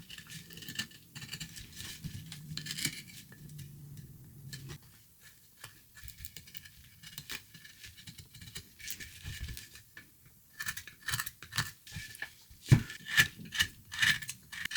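Hand carving tool cutting into a wooden block: soft scraping and clicking at first, then from about two-thirds of the way in a run of sharper, louder cuts, two or three a second, as chips are taken off the wood.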